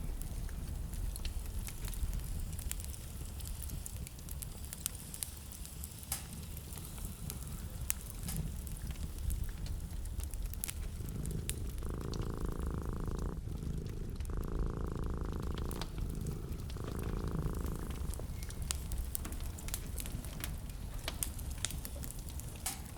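Wood fire crackling in a fireplace: sharp snaps and pops over a low steady rumble. In the middle, three separate stretches of a softer steady sound, each a second or so long.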